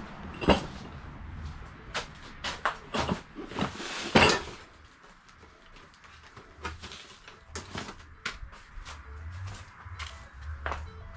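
Knocks, clicks and clatter of objects being handled and set down, with one louder scraping clatter about four seconds in, then lighter scattered clicks.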